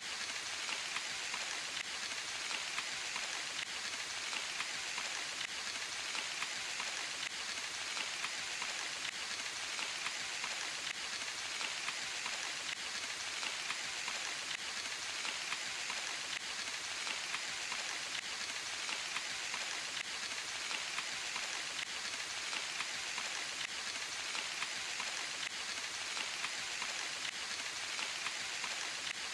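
Steady rain falling in a forest, a dense even hiss of many drops pattering on leaves and ground.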